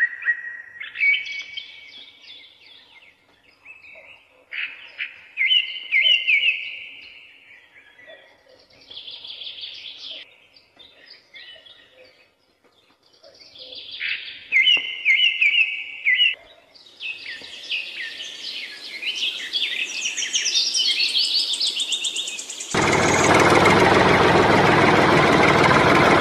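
Birds chirping and singing in short, warbling phrases, then a loud, steady rushing noise that starts abruptly near the end.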